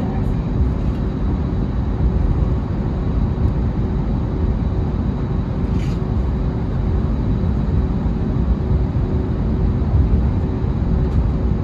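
Steady cabin rumble inside an Airbus A320neo-family airliner, with a steady hum over it. A single short click sounds about six seconds in.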